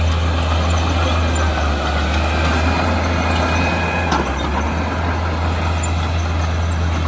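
Heavy diesel engine of earth-moving equipment running steadily with a deep low drone. A faint whine rises above it, and there is a short clank about four seconds in.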